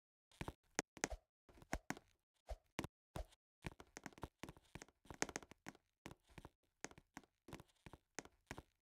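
Irregular knocks, taps and thuds, a few per second.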